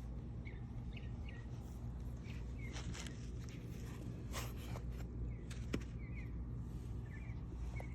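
A small bird chirping in short repeated calls, with a few sharp clicks midway that sound like steps on stone, over a steady low rumble.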